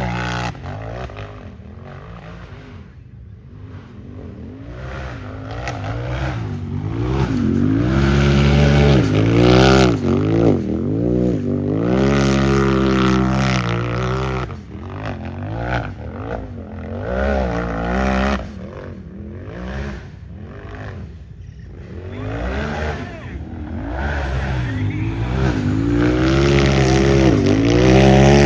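Unlimited-class racing UTV engine revving hard, its pitch rising and falling over and over as the throttle is worked on and off. It is loudest a third of the way in, again in the middle, and near the end, and quieter between.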